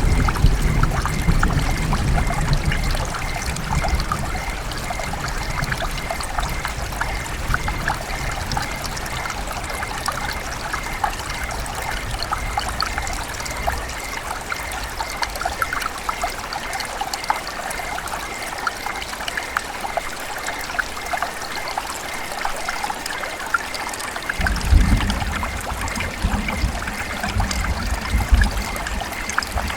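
River water trickling and burbling steadily over stones. There is a low rumble in the first few seconds and again from about 24 seconds in.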